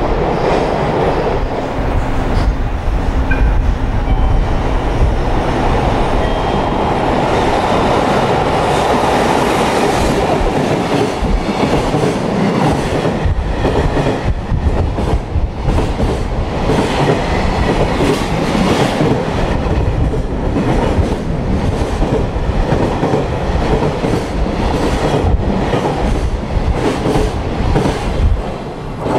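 A long JR Freight container train passing at speed: a steady rolling rumble with the clatter of wheels over rail joints, falling away near the end as the last wagons go by.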